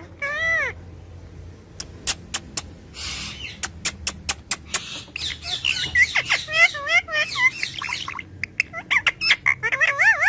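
A pet parrot calling. It gives an arching squawk at the start, then a run of sharp clicks, then a long string of quick, wavering chirps and whistles in the second half.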